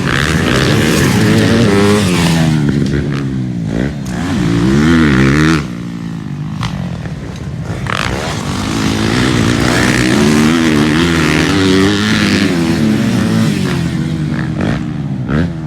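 Motocross dirt bike engines revving hard on the track, their pitch climbing and falling again and again with throttle and gear changes. Loudest a few seconds in, then the sound drops off suddenly as the bikes pull away.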